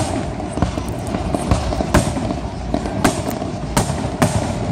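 Aerial firework shells bursting, about half a dozen sharp bangs at uneven intervals.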